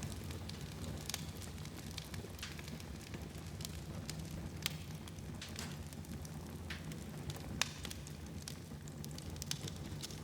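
Fire burning in a fireplace, crackling with scattered sharp pops over a low steady rumble; two louder pops come about four and a half and seven and a half seconds in.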